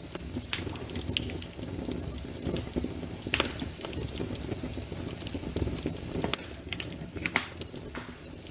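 Wood fire crackling in a fireplace: irregular sharp snaps and pops over a low, steady rumble, with a louder pop about three and a half seconds in and another about seven and a half seconds in.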